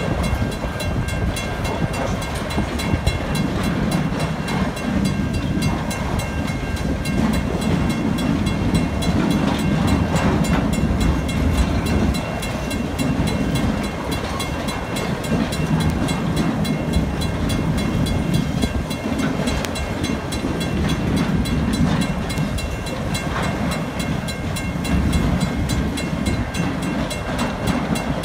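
Freight train cars rolling steadily through a level crossing, a continuous rumble of wheels on rail.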